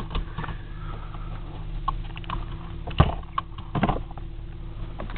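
Car engine idling, a steady low hum inside the cabin, with a few clicks and knocks as someone shifts in the driver's seat; the loudest knock comes about three seconds in.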